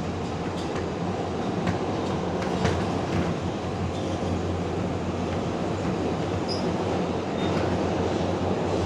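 R142A subway car running between stations, heard from inside: a steady rumble of wheels on rail with scattered clicks, and a few short high wheel squeals in the second half.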